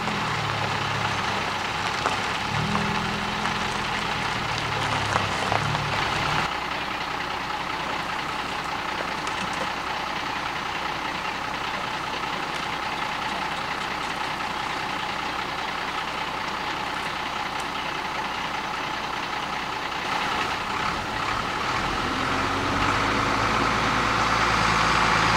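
Motor vehicle engine sound: a car's engine pulling away over the first few seconds, then a steady noisy mechanical hum, with an engine note coming up again near the end.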